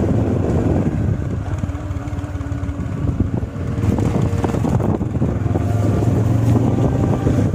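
Motorcycle engine running as the bike rides along a road, a steady low drone under road and wind noise.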